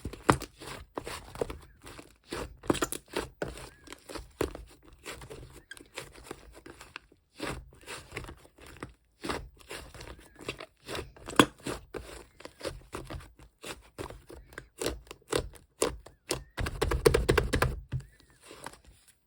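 Hands squishing and poking sky-blue slime, giving irregular sticky clicks and crackles, with a denser, louder run of squelching near the end.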